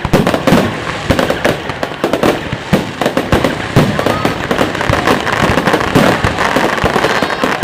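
Fireworks display: a dense, continuous run of bangs and crackling reports from shells bursting in quick succession.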